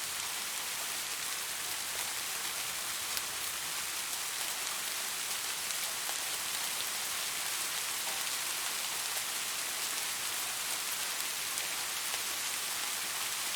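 Steady rainfall, an even hiss of rain on a surface with scattered small drop ticks.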